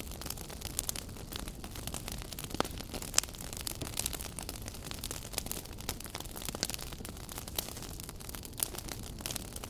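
Fireplace fire crackling, with frequent sharp pops over a low rumble of flame. Two louder pops stand out, about two and a half seconds in and just after three seconds.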